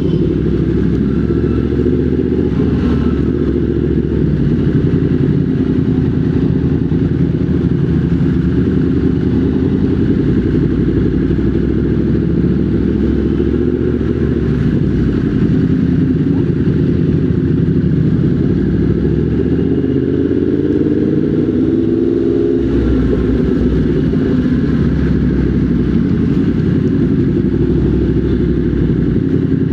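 Motorcycle engine running under way, steady and loud; about two-thirds of the way through its pitch climbs for a few seconds, then drops suddenly.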